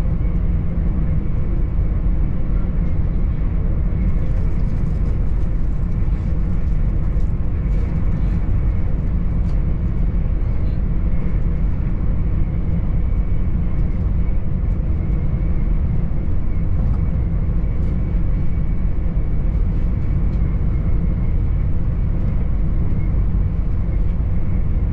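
Inside the passenger cabin of a Hitachi Class 800 (AT300) train running at speed: a steady low rumble with a faint thin high tone over it.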